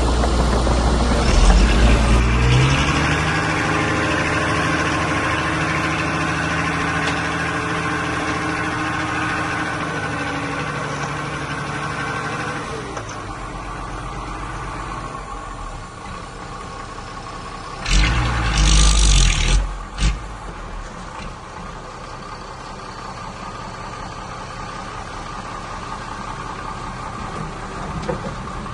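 Diesel engine of heavy earthmoving machinery running, loudest in the first half and then fading to a lower hum. About two-thirds of the way through there is a short, loud rushing burst about two seconds long.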